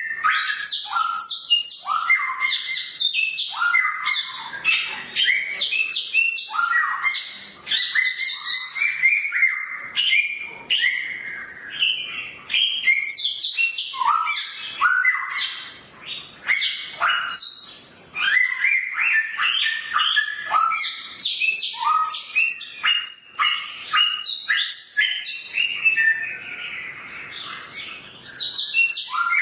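Songbird known to Indonesian bird keepers as a samyong, singing a loud, fast, unbroken song of varied sharp chirps and sweeping high notes, with a couple of brief pauses and a quieter stretch near the end.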